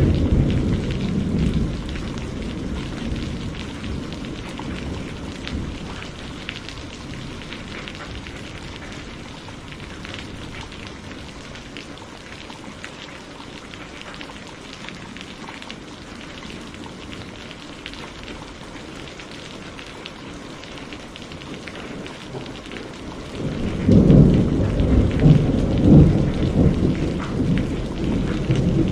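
Steady rain falling in a thunderstorm. A thunder rumble fades away over the first few seconds, and a second rolling peal of thunder begins about three-quarters of the way through, with several loud peaks.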